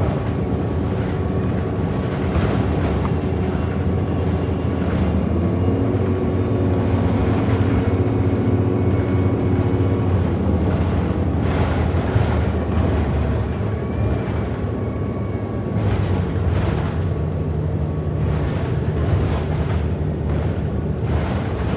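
Inside a 2008 Orion NG hybrid-electric city bus under way: a steady low drive drone with several held tones that shift in pitch a few times, a thin steady high tone above them, and a few faint knocks.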